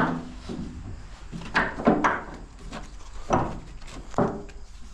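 A handful of sharp, irregular knocks and clunks: hard objects being handled and set down while the load on a pickup truck is worked loose.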